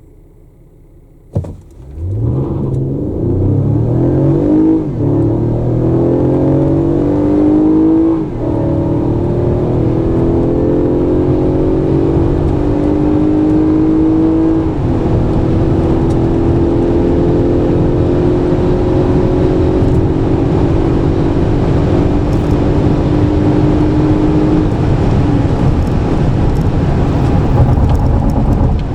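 A sharp click, then the Toyota Alphard's 3.5-litre 2GR-FKS V6 pulls hard under full-throttle acceleration. Its pitch climbs and drops back at each upshift of the 8-speed automatic, four times, with the shifts coming further apart. After the last shift it settles into a steady high-speed cruise with road noise.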